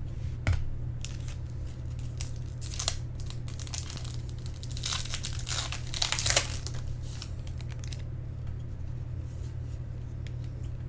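Wrapper of a 2010 Bowman Draft card pack being torn open and crinkled, in a few short bursts with the loudest about halfway through, over a steady low hum.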